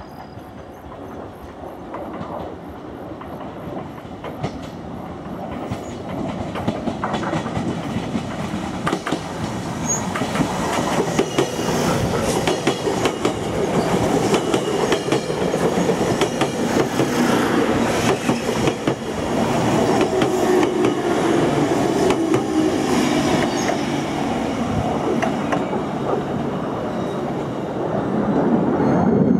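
JR Kyushu 813 series electric train passing close by, its wheels clattering over the rail joints, the sound growing steadily louder as it comes near. A falling tone runs through the second half.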